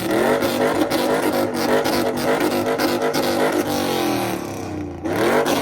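A car engine revving hard again and again, its pitch sweeping up and falling back, with a jittery bouncing stretch in the middle like an engine held on a rev or launch limiter. It drops off briefly near the end and then revs up again.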